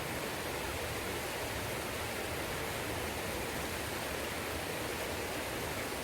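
Mountain stream of clear water rushing over rocks, a steady even rush.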